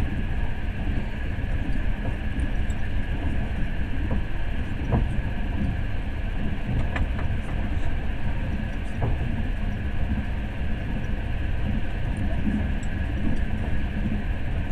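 Passenger train carriage running, heard from inside: a steady low rumble of wheels on the rails with a few faint clicks.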